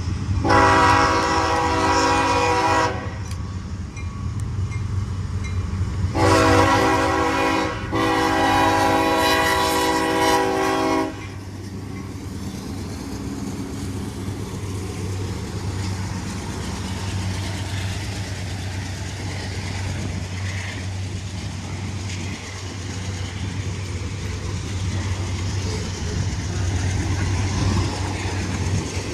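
Diesel locomotive horn sounding three blasts, the last the longest, followed by the steady rumble of the train rolling past.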